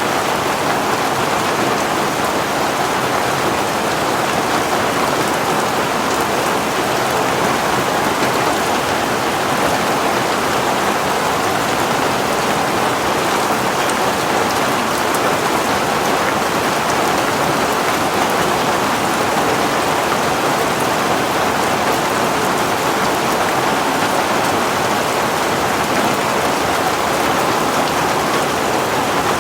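Heavy rain falling steadily, a dense even patter of drops on a surface with no letup.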